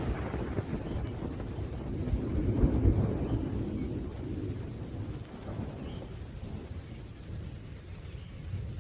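Thunder rumbling low over steady rain. The rumble swells again about two to three seconds in, then slowly fades away.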